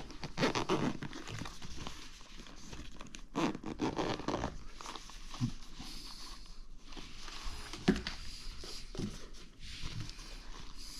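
Scratchy rustling and handling noise as the DJI Mic 2's carrying pouch is opened and handled, with a few light clicks and knocks, two of them sharper near the end.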